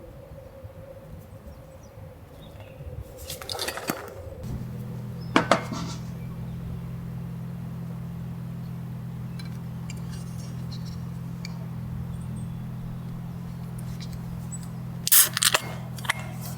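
Tableware clinking a few times, with a cluster of clinks near the end, over a steady low hum that switches on about four seconds in.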